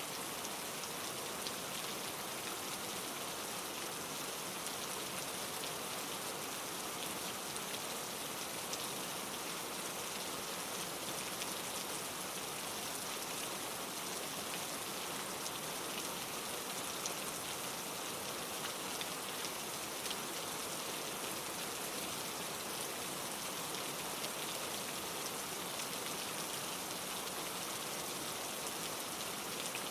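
Steady rain falling on leaves: an even hiss of many small drops, with an occasional single drop standing out slightly.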